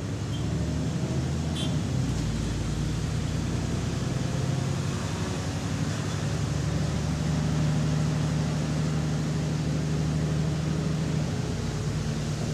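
Double-decker diesel bus engine running steadily, heard from inside the bus, its note growing stronger in the middle as it pulls. This bus has a known exhaust leak.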